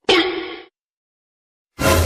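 A cartoon-style comedy sound effect: a sudden metallic clang that rings for about half a second. Near the end, after a second of silence, another sudden, noisier sound effect with a low rumble begins.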